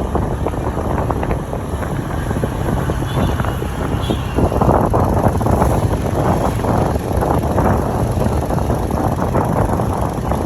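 Waterfall rushing, with wind buffeting the microphone; the noise grows louder about halfway through.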